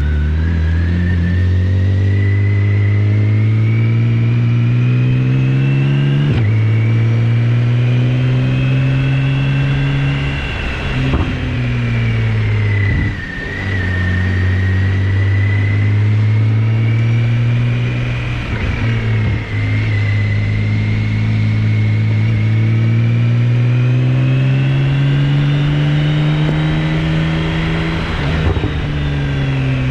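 BMW K1600GTL's inline-six engine breathing through a Hattech aftermarket muffler, pulling under way: its pitch climbs, drops briefly at each gear change and climbs again, about four times.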